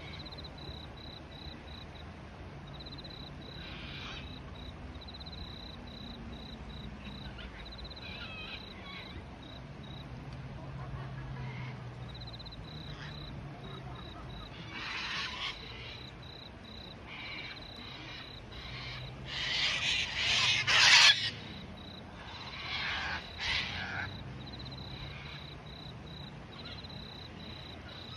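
A steady, high, pulsing insect trill, with several louder bird calls in the second half, the loudest about twenty seconds in.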